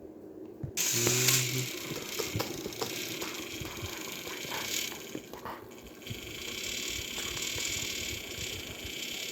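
Battery-powered TrackMaster toy train engines running, their small motors and plastic gears whirring with clicks and rattles. The whir starts suddenly about a second in.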